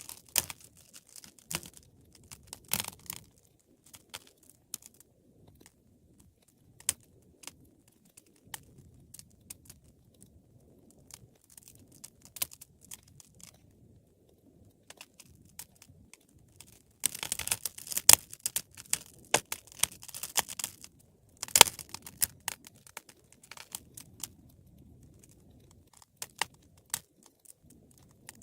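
Wood fire crackling in a fireplace: scattered sharp pops and snaps over a faint low rumble of the flames. A thick burst of crackling comes in the middle, and the loudest pop follows just after it.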